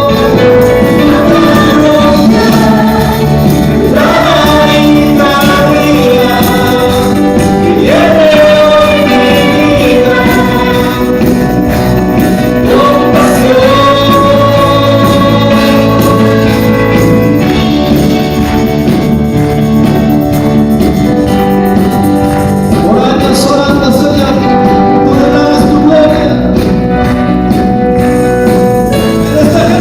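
Live gospel worship music: a group singing over sustained instrumental chords, with tambourine.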